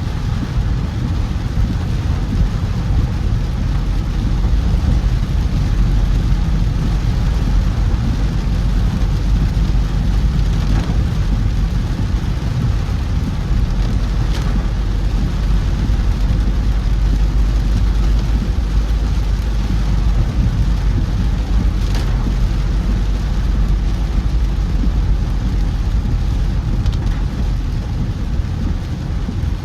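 Car driving through heavy rain: a steady low road and engine rumble with the hiss of rain over it, and a few faint ticks.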